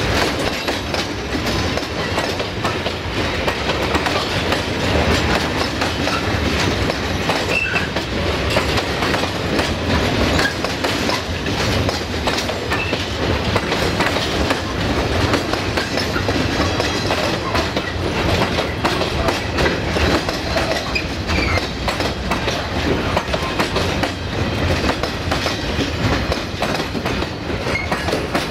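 Freight train of loaded stake flat wagons rolling steadily past close by, the wheels clattering over the rail joints under a continuous rumble.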